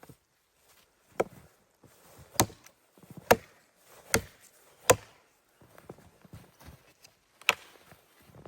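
Wood being chopped: six sharp strikes roughly a second apart, with a longer pause before the last one, and lighter knocks between them.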